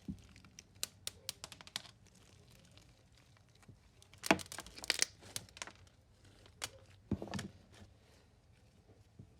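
Small beads falling out of stretched slime and clicking onto a hard surface: scattered light ticks, with a louder run of clicks around four to five seconds in and another near seven seconds.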